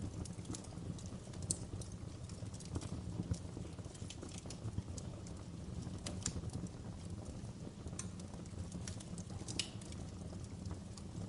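Wood fire burning in a fireplace: a steady low rumble of flames with irregular crackles and pops from the burning logs.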